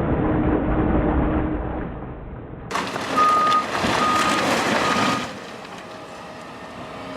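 Heavy vehicle engine running with a steady low drone, then a reversing alarm beeps three times over machine noise.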